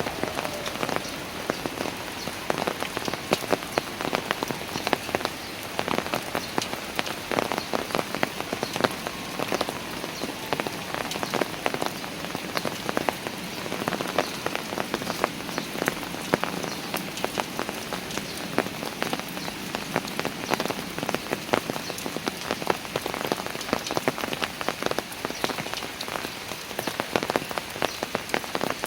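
Rain falling steadily on park stairs, with many individual drops ticking sharply over a constant wash.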